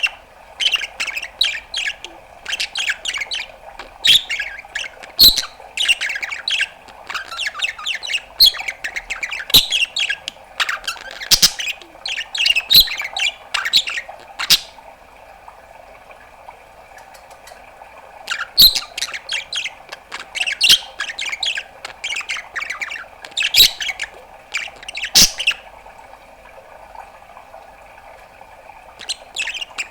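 Pet budgerigar chattering and warbling in rapid bursts with sharp clicks and pops, going quiet for a few seconds about halfway and again near the end. A steady hum runs underneath.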